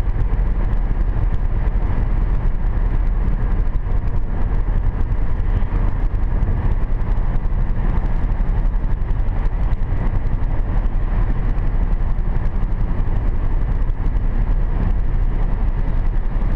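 Steady road and engine noise of a 2010 Hyundai Sonata V6 cruising at about 80 km/h on a wet road, heard from inside the car, with a deep rumble.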